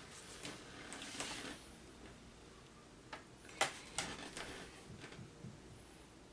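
Calligraphy work sounds: soft rustling of a brush and paper during the first second and a half, then a few sharp taps and clicks about three to four seconds in.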